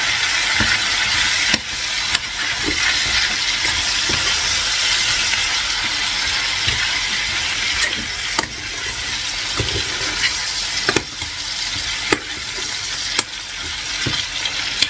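Chicken pieces frying in oil in a casserole pan with garlic cloves and a crushed garlic-and-almond paste, sizzling steadily, with a few sharp knocks.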